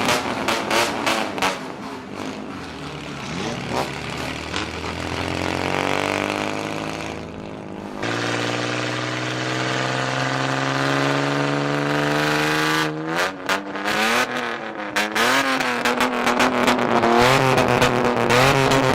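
Modified vehicle engines with loud exhausts revving. The pitch climbs over the first several seconds, and about eight seconds in the sound changes abruptly to a steadier note. From about thirteen seconds there are repeated quick throttle blips, the pitch swinging up and down.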